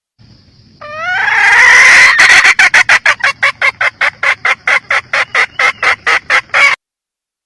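Red junglefowl hen calling: a rising, drawn-out squawk that breaks about two seconds in into a fast run of sharp cackling clucks, about four or five a second, which stops abruptly near the end.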